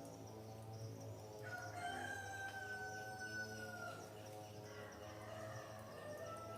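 A rooster crowing: one long call of about two and a half seconds, then a fainter second crow near the end. A steady low hum runs underneath.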